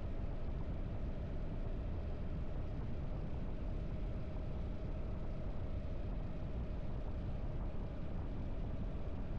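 Harley-Davidson V-twin motorcycle engine running steadily while riding, holding an even speed with no change in revs.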